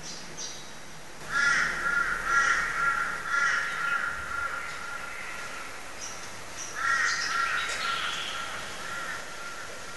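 A bird calling in two runs of repeated notes, about two a second. The first run of about six notes starts a little over a second in, and a shorter run follows near the seven-second mark.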